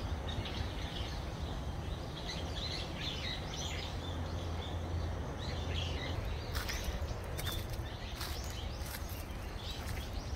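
Small birds chirping repeatedly over a steady low rumble. A few sharp crackles come in the second half.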